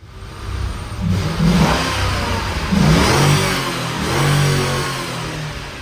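Ford 32-valve V8 engine revved hard several times: the pitch rises about a second in, again near three seconds, then holds high. It rides the redline with no rev limiter cutting in.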